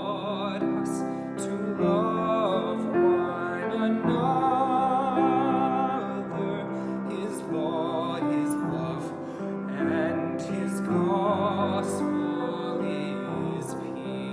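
A classically trained solo voice singing long, wavering vibrato notes over piano accompaniment, in a slow carol.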